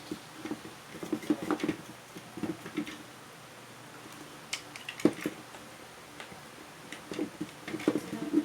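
Light, irregular clicks and taps of small metal and plastic parts being handled during vacuum cleaner motor repair, with one sharper click about five seconds in.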